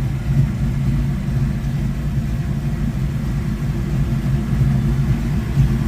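1972 Ford Mustang Mach 1 V8 idling steadily, its exhaust running through a Super 10 muffler.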